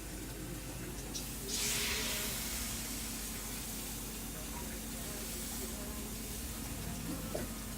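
Food sizzling in a hot pan: a sudden burst of hiss about a second and a half in that eases into a steady sizzle.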